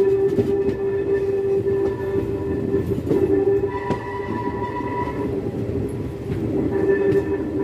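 Passenger train running, heard from an open coach doorway: the wheels rumble on the rails under a steady ringing tone that holds almost throughout, with a higher tone joining briefly about four seconds in.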